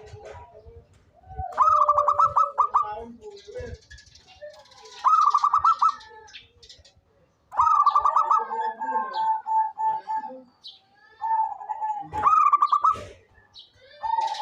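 Zebra dove (local perkutut) singing its staccato cooing song: four rapid pulsed phrases a few seconds apart, the third drawn out with a long run of even coos.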